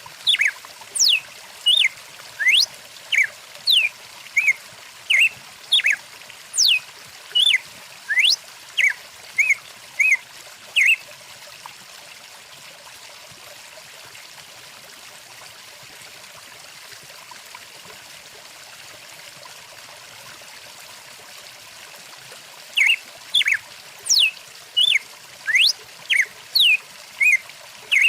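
A songbird calling in a quick series of short chirps, about two a second, some sweeping up or down in pitch. It falls silent for about ten seconds in the middle, then starts again. The steady rush of a flowing stream runs underneath.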